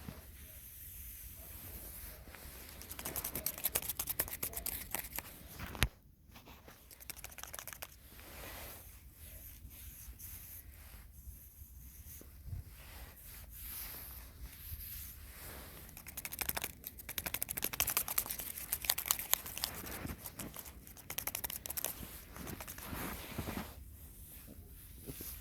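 Close-up rustling, crinkling and scratching from hands handling gardening materials, with stretches of rapid crackling and one sharp click about six seconds in.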